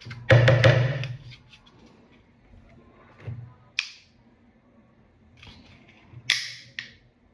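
Hard objects being handled: a rough scrape lasting about a second, then a click near four seconds and a sharp knock with a short ring about six seconds in.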